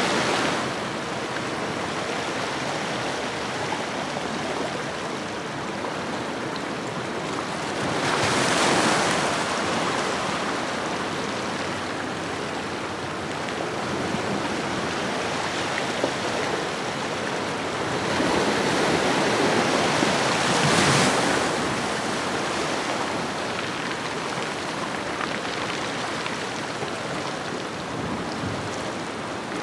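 Ocean waves washing onto a shoreline: a steady surf wash with two larger swells, one about 8 seconds in and a louder one about 18 to 22 seconds in.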